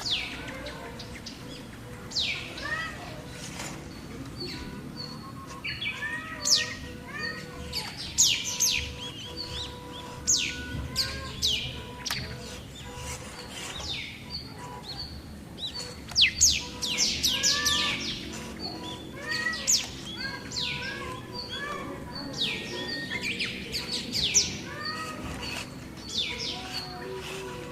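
Birds chirping: many quick high chirps that sweep steeply downward, coming in busy clusters, over a faint steady tone.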